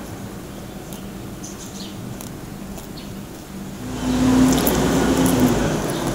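Chewing of crispy fried pork knuckle: faint scattered crunching clicks over a steady low hum. About four seconds in, a louder rushing noise with a short steady hum swells up for about two seconds, then eases off.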